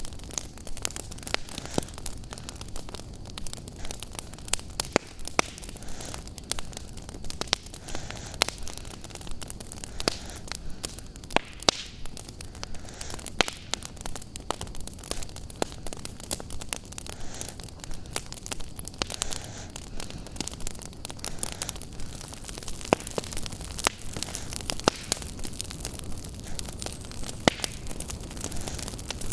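Wood fire crackling in a fireplace: irregular sharp pops and snaps, several a second, over a steady hiss.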